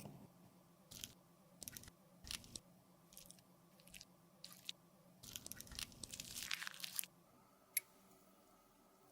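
Makeup being worked with small tools: soft, crunchy crackles and scrapes come one at a time, then thicken into a run of crackling before a single sharp click near the end.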